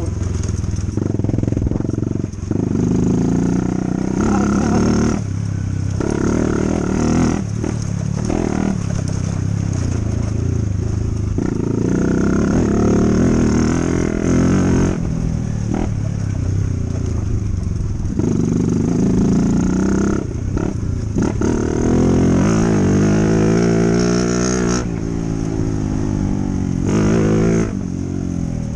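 Dirt bike engine running under way, its pitch rising and falling every few seconds as the throttle is opened and closed through the gears, with brief drops in between.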